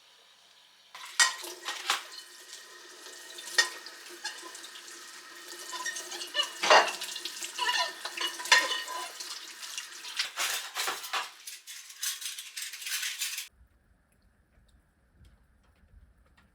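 Dishes and cutlery clinking and clattering: many small knocks with short ringing tones, irregular and busy. It cuts off suddenly about thirteen seconds in.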